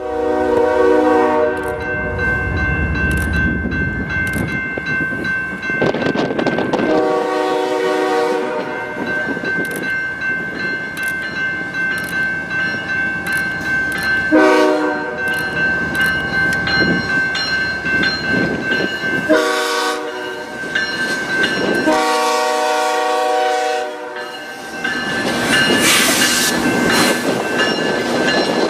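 Canadian Pacific freight train rolling past with steady wheel and rail noise, its locomotive horn sounded in five blasts, the third one short, a grade-crossing style signal. A steady high ringing tone runs under it.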